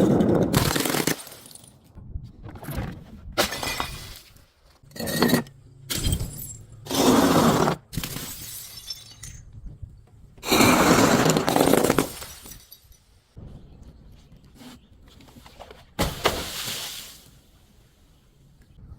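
Glass breaking and crunching in a string of separate bursts, some short cracks and some lasting a second or more, with quieter crackling in between; the longest burst comes a little past the middle.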